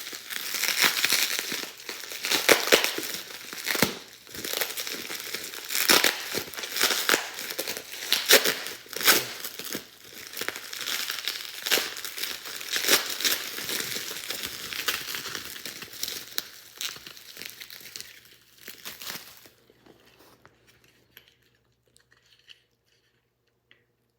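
Plastic bubble wrap crinkling and crackling sharply as it is pulled off a package by hand. It stops near the end, leaving only a few faint clicks.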